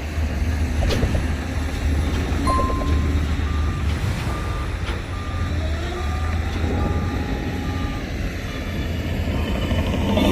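Heavy diesel machinery running, with a reversing alarm beeping about twice a second through the middle of the stretch while an engine revs up.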